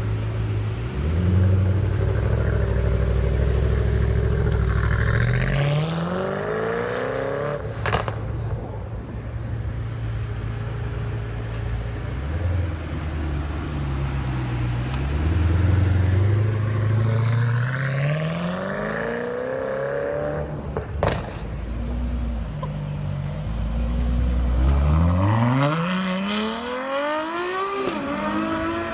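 Loud-exhaust performance cars accelerating hard away one after another, the engine pitch rising steeply three times. A sharp crack comes after each of the first two pulls.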